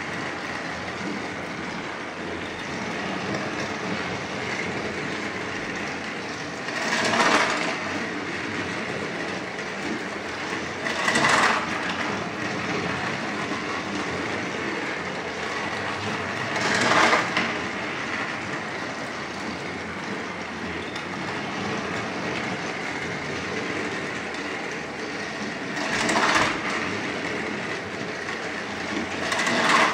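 Battery-powered Thomas & Friends TrackMaster toy trains running on plastic track: a steady motor whir and wheel rattle that swells louder briefly five times.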